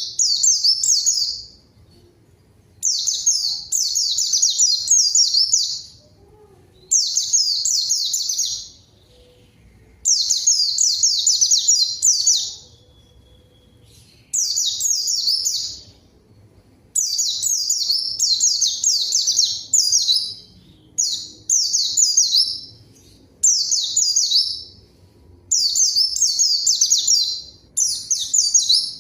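A white-eye (pleci) singing continuously in rapid, high twittering phrases of one to three seconds each, with short pauses between them. This is the vigorous 'gacor' song that is played as a lure to make other white-eyes answer.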